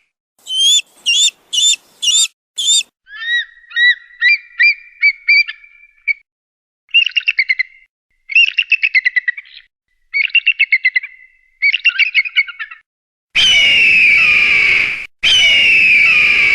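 Eagle calls in several separate takes: five short shrill calls, then a run of piping notes, then rapid chittering trills, and near the end two long loud screams.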